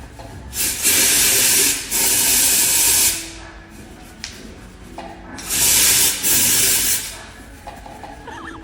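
Two long bursts of hissing spray, the first about two seconds long with a brief break partway through, the second about a second and a half long.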